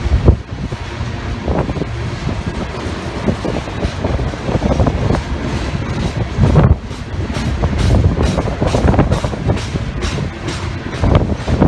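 Loaded coal train rolling past upgrade, its steel wheels clicking in a steady rhythm over rail joints, with a continuous rolling rumble underneath.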